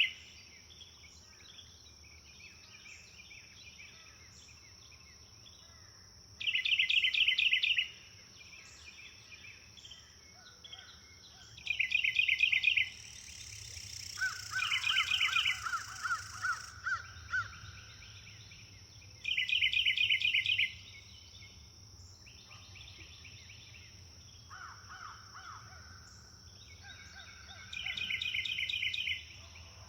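Woodland birds singing: one bird repeats a short, fast trill every six to eight seconds, and a second bird gives a slower run of notes about halfway through and again later, over a steady high drone of insects.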